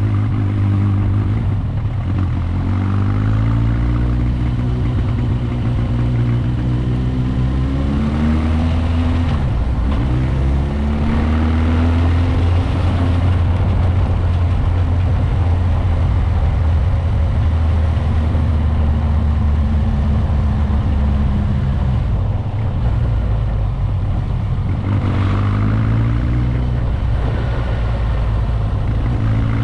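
Motorcycle engine under way, its pitch climbing as it accelerates and dropping back at each gear change, a few times over, with a steadier cruising stretch in the middle; wind and road noise rushing throughout.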